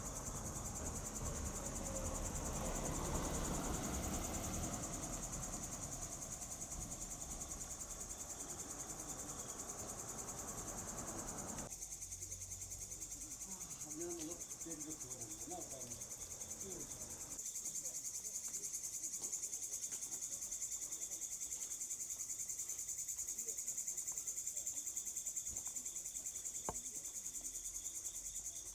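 Steady high-pitched insect chorus with a pulsing trill. A broad low rumble underlies it for the first twelve seconds or so and cuts off abruptly.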